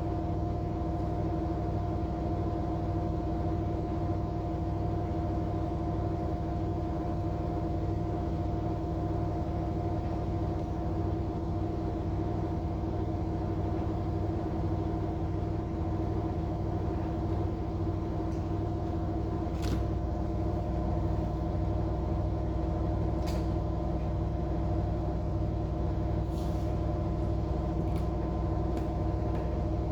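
Air conditioner running with a steady hum: several unchanging tones over a low rumble, with a few faint sharp clicks in the second half.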